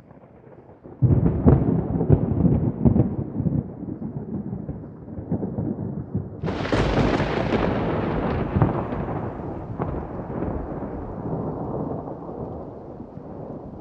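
Thunderstorm: thunder rumbles in about a second in, then a sharper thunderclap about six and a half seconds in rolls away slowly, over heavy rain.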